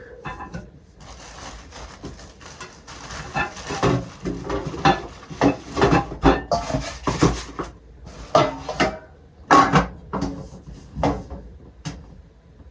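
Irregular knocks, clicks and rustling from a kitchen canister set for coffee, tea and sugar being unpacked and handled, the containers knocking together.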